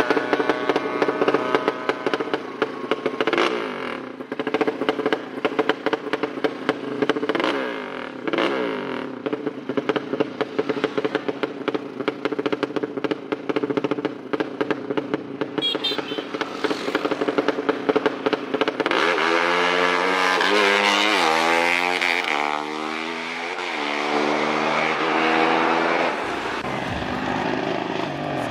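Tuned drag-racing motorcycle engine running hard at high revs. From about two-thirds of the way in it accelerates in a quick series of rising revs, one after another, like shifting up through the gears.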